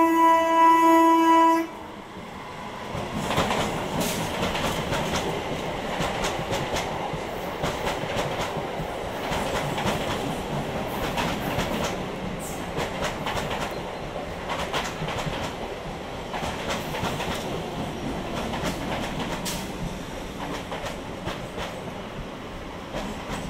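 Electric multiple unit local train sounding its horn in one steady multi-tone blast that stops about a second and a half in. The train then runs past, its wheels clattering over the rail joints.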